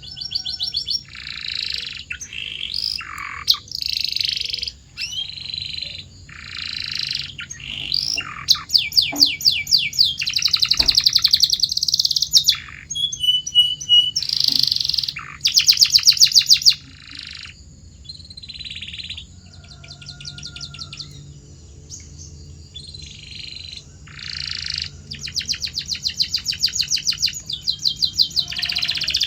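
Canary singing a long song of varied phrases, many of them rapid rolling trills of repeated notes, with short pauses between phrases. The loudest trills come around the middle and again near the end.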